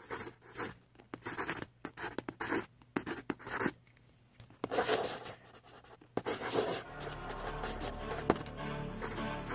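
Pencil scratching and rubbing across paper in quick, irregular strokes as a drawing is shaded. From about seven seconds in, a low, steady musical drone comes in underneath.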